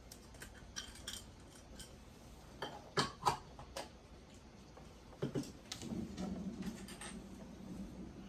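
Scattered light clicks and taps of quilting tools and cut fabric pieces being handled on a cutting table, with two sharper clicks about three seconds in and another pair a little after five seconds.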